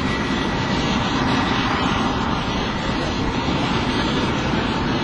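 Airbus A380 jet engines running: a steady, loud rushing noise that neither rises nor falls.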